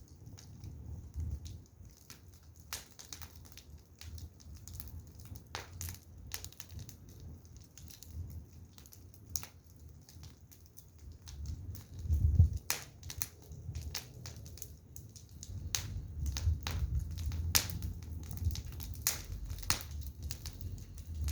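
Firewood burning, crackling with irregular sharp pops and snaps, over a low rumble that swells and fades.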